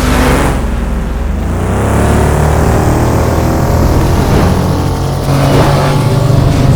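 Motorcycle engine running and accelerating, its pitch rising about a second in, then settling into a steady drone that grows louder near the end.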